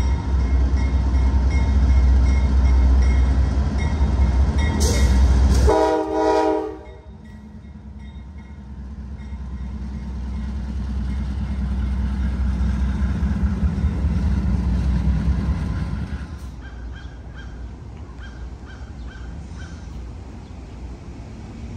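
Passing freight train led by GE CW44AC diesel-electric locomotives: heavy low rumble, a short multi-tone horn blast about six seconds in, then the sound drops away abruptly. The rumble builds again over the next several seconds and eases off near the end.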